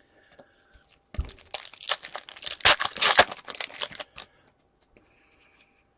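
Foil wrapper of a hockey card pack being torn open and crinkled: a dense crackling tear lasting about three seconds, starting just after a second in.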